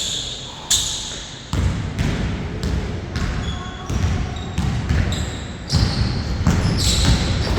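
Basketball bouncing on a court during play: a string of sharp, irregular thuds, mixed with short high squeaks.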